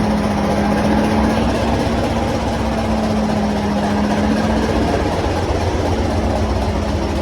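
Diesel train engine running steadily, a low rumble with a steady hum over it.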